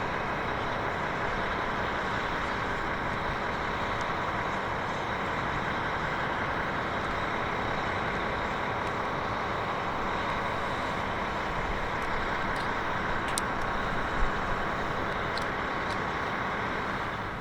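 Jet engines of a Boeing 747-400 freighter running steadily, a loud even noise.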